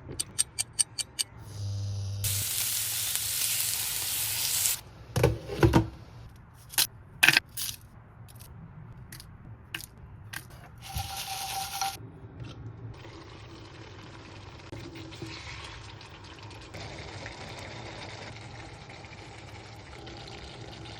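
Kitchen cooking sounds: a quick run of clicks, a loud burst of hissing, and several sharp utensil knocks, then food frying with a steady sizzle through the second half.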